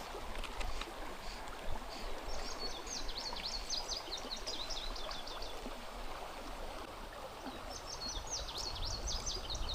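Flowing river water running steadily, with a songbird singing the same quick phrase of falling notes twice, a few seconds apart.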